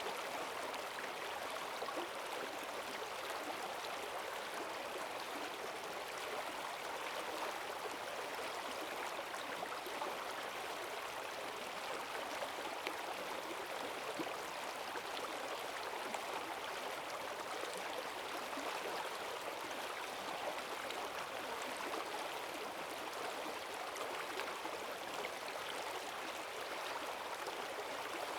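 Forest stream running fast and full after heavy rain: a steady rush of water with small splashes and gurgles over it.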